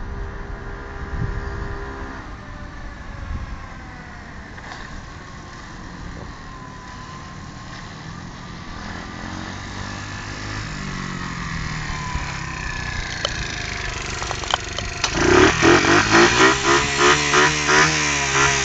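Pit bike engine coming closer along the road, faint at first with its pitch rising and falling through the gears. About fifteen seconds in it arrives close by and is revved up and down unevenly, becoming the loudest sound.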